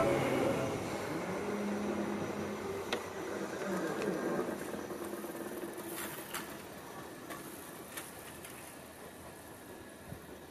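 Seibu 2000 series electric commuter train running away past, its sound fading steadily as it recedes, with a low hum early on and a few faint clicks.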